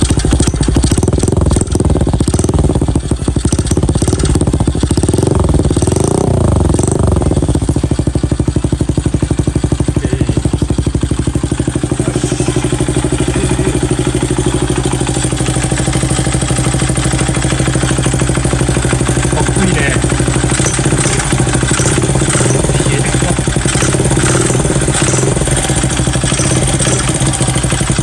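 Honda Ape 50's single-cylinder four-stroke engine running through a newly fitted Zero Racing Rose aftermarket muffler. It is blipped up and down a few times in the first several seconds, then settles to a steady idle.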